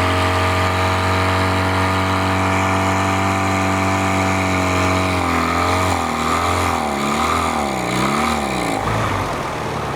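Boat motor running steadily, then from about five seconds in surging up and down in speed roughly once a second before dying near the end. The stumbling fits the fuel supply failing: the wiring of its newly fitted electric fuel pump was melting.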